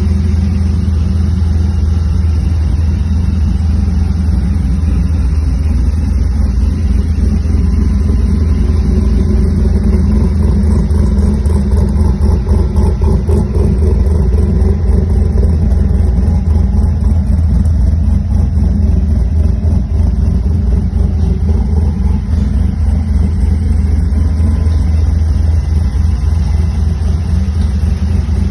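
Toyota FJ40 Land Cruiser engine running steadily with a deep, even rumble.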